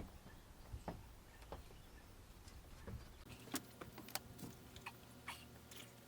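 Faint scattered clicks and knocks, with two sharper ones about three and a half and four seconds in.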